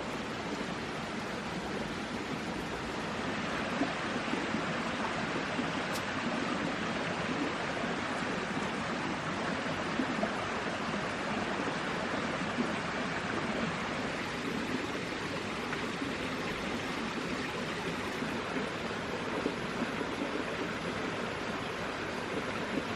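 Steady rushing of water, with a few faint knocks over it.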